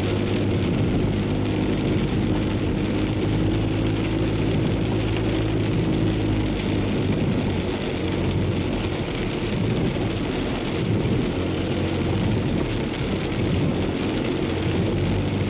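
Inside a moving car in heavy typhoon rain: steady engine and road noise with rain hissing on the car.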